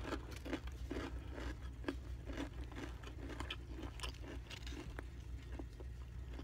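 A person chewing a Subway Veggie Delight sub close to the microphone: soft, irregular wet mouth clicks and smacks as she chews with her mouth closed. A steady low hum lies underneath.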